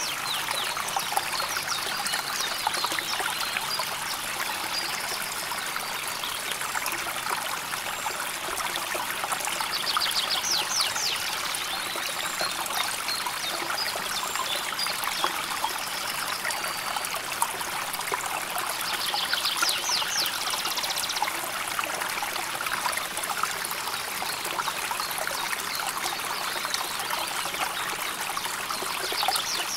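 River water flowing and trickling steadily over stones. Brief high, rapid trills cut through it twice, about a third of the way in and again about two thirds in.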